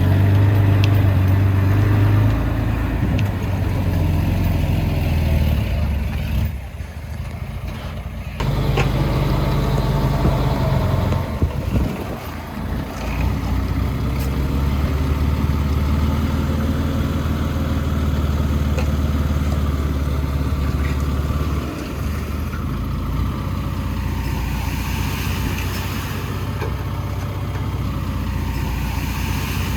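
Heavy-equipment diesel engine running steadily, its note shifting a few times, with a brief drop in level about seven seconds in.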